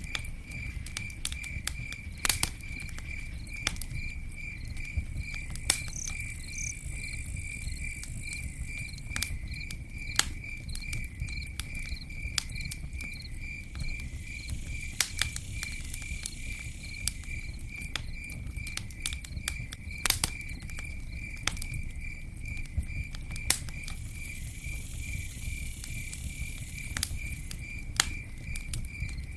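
Campfire burning, with irregular sharp crackles and pops over a low rumble. Behind it an insect chirps steadily at one pitch, about three times a second.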